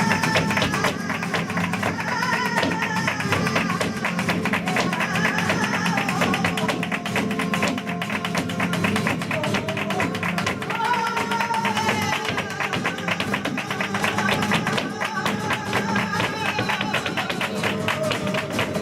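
Live flamenco seguiriya: a flamenco singer's wailing phrases over Spanish guitar, with the dancer's rapid footwork taps (zapateado) running throughout.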